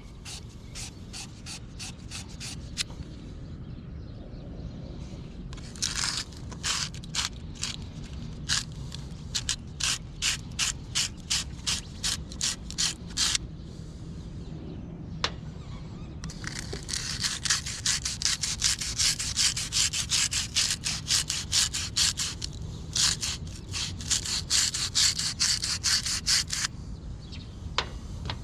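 Copper pipe fittings being scrubbed clean by hand with an abrasive cleaning tool before soldering. It comes as a run of separate strokes, about two or three a second, then after a short pause as faster, continuous scrubbing.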